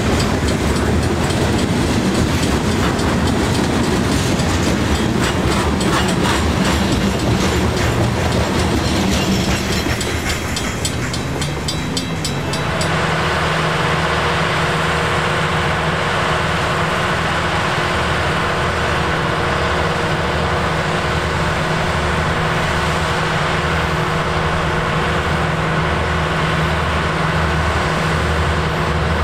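Freight train cars rolling past, their wheels clicking rhythmically over rail joints. About halfway through the sound changes abruptly to a steady engine drone with a pulsing low rumble.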